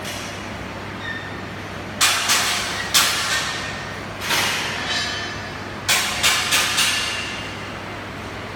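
Metal being struck: about eight sharp clanks at irregular spacing, each leaving a short metallic ring, over a steady low hum.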